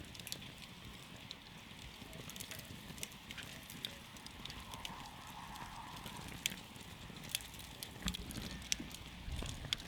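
Wood campfire crackling, with irregular sharp pops several times a second over a steady low hiss.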